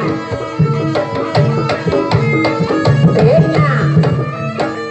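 Jaranan dance accompaniment music: rapid hand-drum strokes over steady, held pitched tones, with a brief wavering melody line about three seconds in.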